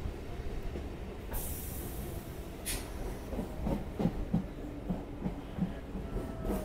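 Suburban electric local train running along the track, heard from beside the coach: a steady low rumble, with a short burst of hiss about a second and a half in. Through the second half, the wheels click over rail joints about three times a second.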